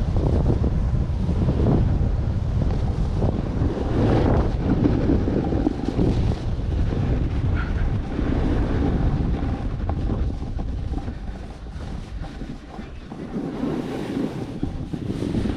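Wind rushing over the microphone while riding downhill through powder, a gusty low rush that eases somewhat in the last few seconds.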